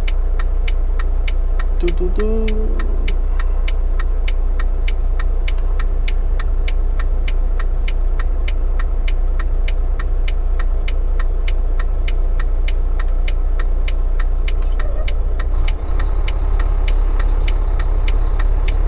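Inside a Volvo 780 semi truck's cab: a steady low engine drone while driving, with a turn signal clicking evenly about three times a second.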